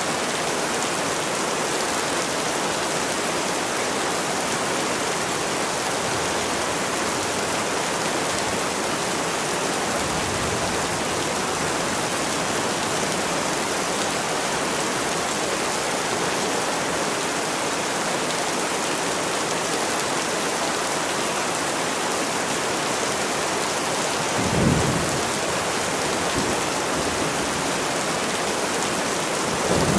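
Steady heavy rain hissing evenly, with a brief low rumble of thunder late on.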